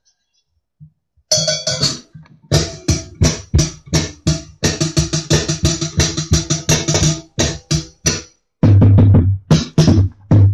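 A recording of a drum kit played back loud through home-built three-way sealed speaker cabinets (10-inch woofers, 6-inch mids, car tweeters) driven by a small 30-watt amp. After about a second of silence come quick snare and cymbal hits in a fast rhythm, with heavy bass drum coming in near the end.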